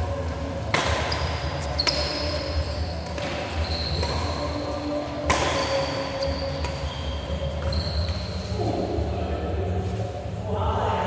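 Play on an indoor sports-hall court: three sharp hits, about a second in, at two seconds and at five seconds, with short high squeaks between them over a steady low rumble in a large echoing hall.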